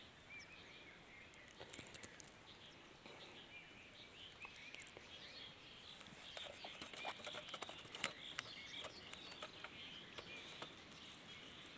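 Faint bird calls: many short, scattered chirps, with light clicks and ticks in between.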